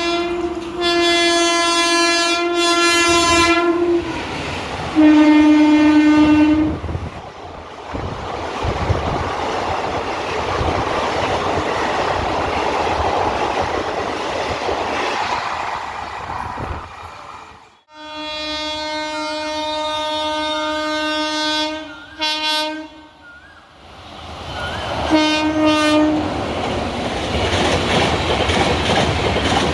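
Indian Railways train horn: a long blast and then a shorter one, followed by the rumble and wheel clatter of a train passing. After a sudden break the horn sounds again, a long blast and two short ones, and the passing rumble returns.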